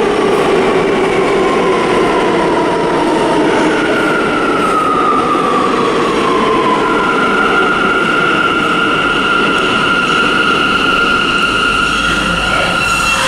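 Vintage subway train running on the rails, a loud steady rumble with high whining tones over it. The whine glides down in pitch from about four to seven seconds in, then holds steady.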